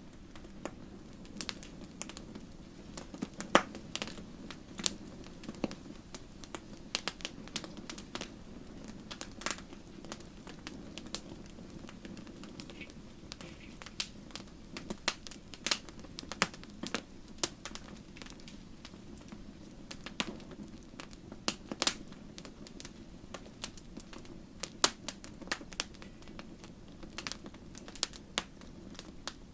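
Wood campfire crackling: irregular sharp pops and snaps over a steady low hiss of burning.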